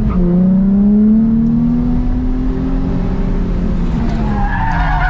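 Drift car's engine heard from inside the cabin, pulling hard with its pitch climbing for about three seconds, then easing off. Near the end the tyres start to squeal as the car breaks into a slide.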